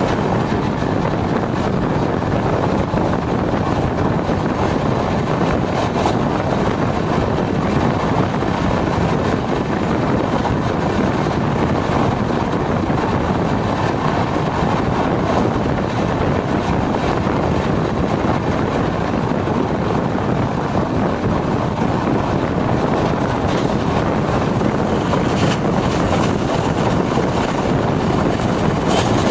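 Express passenger train running at speed, heard from the open doorway of a coach: a steady rumble of wheels on rail mixed with wind buffeting the microphone. Sharper wheel clicks come through near the end.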